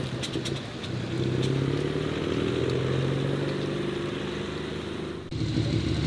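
Modified car's engine running at steady low revs, with a few sharp clicks in the first second and a half. About five seconds in the sound breaks off abruptly and a different engine takes over.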